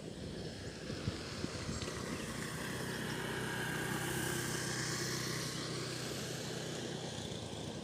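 A motor vehicle passing by, its engine note and road noise swelling to a peak about halfway through, then fading away.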